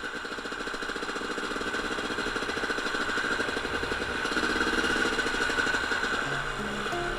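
Honda CR250 two-stroke motocross engine running with a rapid, even pulse, slowly growing louder. Music comes in over it about six seconds in.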